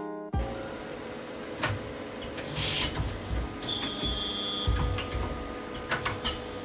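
CNC tool grinder working: a steady hum with scattered mechanical clicks and knocks, a short hiss of air a bit under three seconds in, and a brief high beep about a second later.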